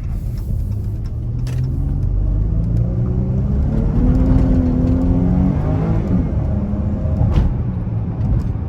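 Dodge Charger's V6 engine pulling under acceleration, its pitch climbing for a few seconds, then dropping back about six seconds in and running steady.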